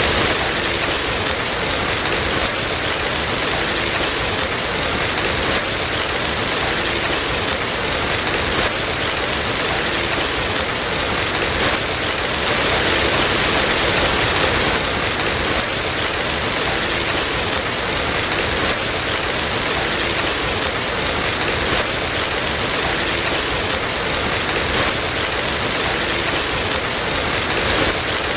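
Steady heavy rain falling, an even continuous hiss that swells slightly about halfway through.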